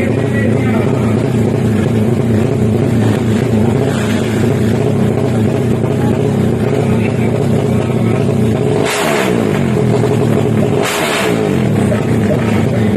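Drag-racing motorcycle engines running at a held, steady note. About nine and again about eleven seconds in, a louder rush drops quickly in pitch, like a bike blasting past.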